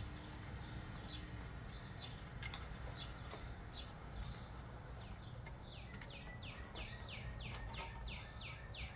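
A songbird calling a rapid run of short, falling chirps, about five a second, starting about five and a half seconds in. Underneath is a low steady hum and a few light clicks from handling the air cleaner's rain sock.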